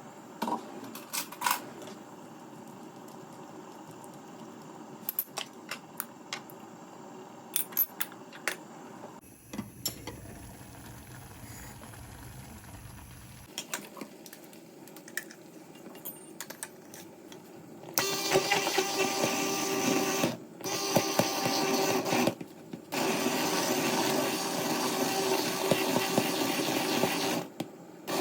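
Light clicks and knocks of kitchen utensils and dishes being handled. About eighteen seconds in, a small electric kitchen appliance motor starts running loudly, cutting out briefly a few times.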